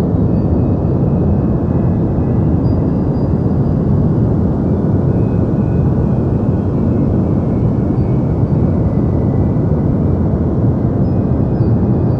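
Deep white noise: a steady, even rush with most of its weight low and little treble, like a soft continuous hum.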